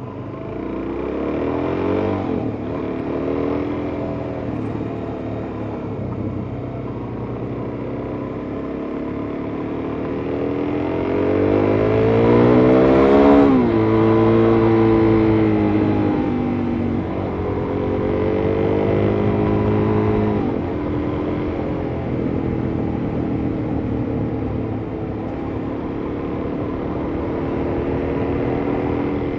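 Suzuki DR-Z400S's single-cylinder four-stroke engine pulling under way, its pitch climbing as it accelerates and dropping sharply at an upshift about halfway through, then climbing and dropping again about two-thirds through; otherwise a steady cruise.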